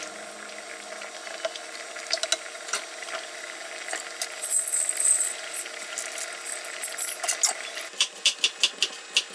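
Kitchen handling sounds: scattered clicks and knocks, a brief hiss about halfway through, then near the end a fast, even run of sharp knocks, about five a second.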